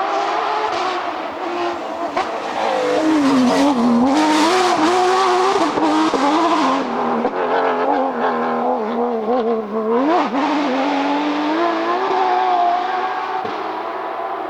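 Porsche GT3 rally car's flat-six engine at full stage pace, its note rising and falling with throttle and gear changes, with a rushing tyre noise over it from about three to seven seconds in. A quick rev blip about ten seconds in, then the engine note eases off toward the end.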